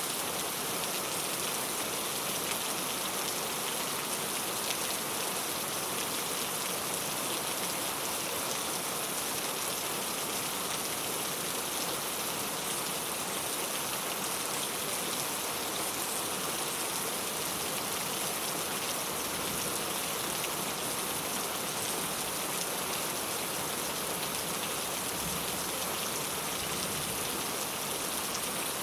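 Steady rain falling on a clay-tile roof: an even, unbroken hiss of many drops.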